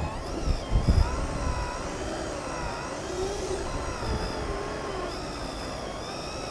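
Electric motor of an RC drag car whining, its pitch wavering up and down as the throttle is worked, with a few low knocks in the first second.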